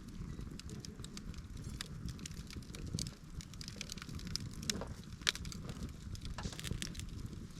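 Wood campfire burning, the flames a steady low rumble with frequent crackles and a few sharper pops of the burning wood.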